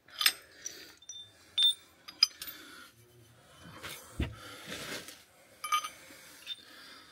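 Metal tools and fittings clinking and knocking: several sharp metallic clinks with a short ring, and a duller knock about four seconds in.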